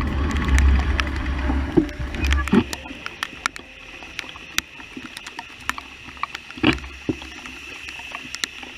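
Raindrops ticking irregularly on a nearby surface, some louder than others. A low wind rumble on the microphone runs for the first two seconds or so, then dies away.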